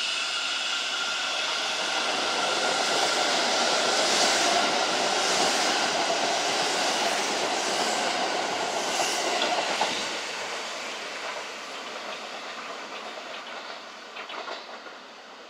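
Kintetsu electric train going by at the platform: a steady motor whine over wheel and rail noise, loudest about four seconds in, then fading after about ten seconds as wheel clicks over the rail joints trail off.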